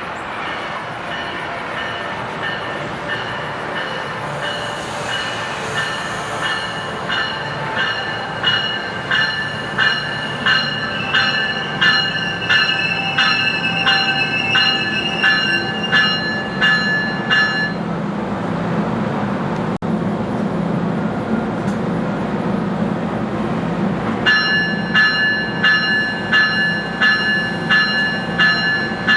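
MARC commuter train passing: its wheels clack over rail joints in a quick, steady rhythm with a ringing squeal on each stroke, which stops for a few seconds midway and then returns. A low diesel locomotive rumble builds in the second half.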